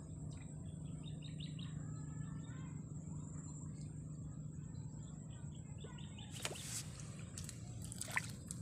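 Small birds chirping over a steady low background hum. Near the end, a few sharp splashes at the water surface as a fish strikes at the bait beside the fishing float.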